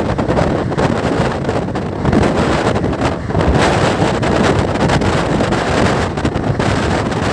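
Wind buffeting a microphone held out from a moving express passenger train, over the steady running noise of the coaches on the rails. The loudness wavers with the gusts but never drops.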